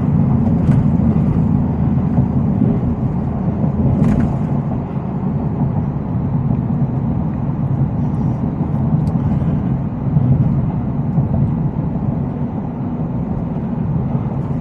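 Shelby F-150 Super Snake's supercharged 5.0-litre V8 running steadily as the truck drives, heard from inside the cab as a low, even drone mixed with road rumble.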